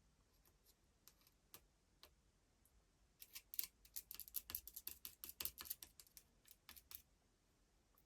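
Small hard parts clicking and tapping together as they are handled: a few scattered clicks, then a busy run of clicks for about four seconds before it goes quiet again.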